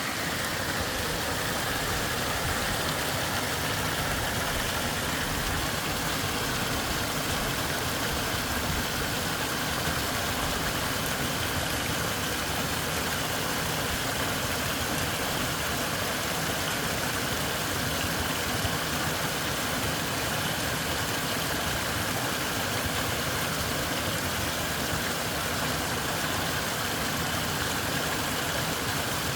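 Steady rushing water, an even noise with no breaks or changes.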